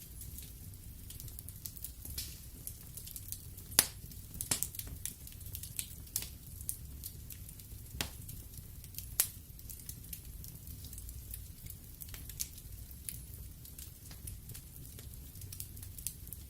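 Wood fire burning in a fireplace: a low steady rumble of the flames with irregular crackles and pops of the burning logs, a few sharper snaps standing out about four and eight seconds in.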